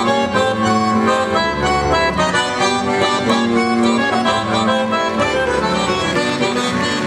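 Traditional Sardinian folk music on a reed instrument: a melody played over held notes.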